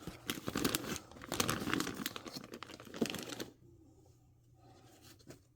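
Plastic zip-top bag crinkling and rustling as it is handled, in quick crackles that stop about three and a half seconds in.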